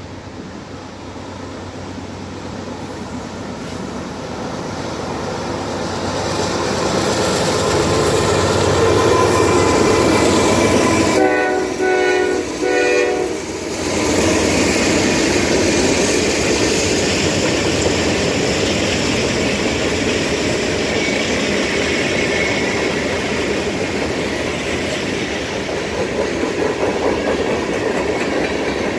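Norfolk Southern diesel freight locomotive approaching and growing louder, sounding its horn in a few short blasts about eleven seconds in as it passes. A long string of freight cars then rolls by with the steady noise of wheels on the rails.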